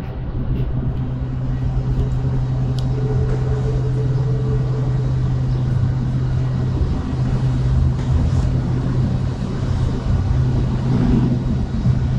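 Steady low engine hum of a motor vehicle close by, over a low traffic rumble.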